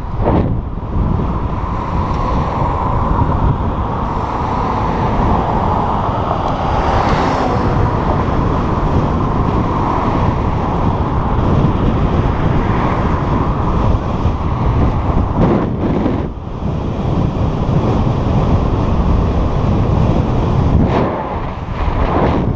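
Wind buffeting the camera microphone during a bike ride, a loud steady rush with heavy low rumble that eases briefly twice.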